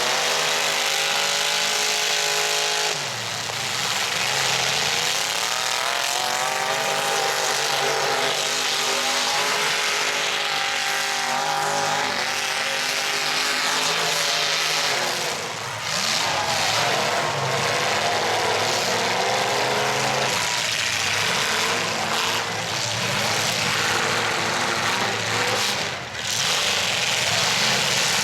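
Stock pickup trucks' engines revving hard, their pitch climbing and dropping again and again, over a dense hiss of noise.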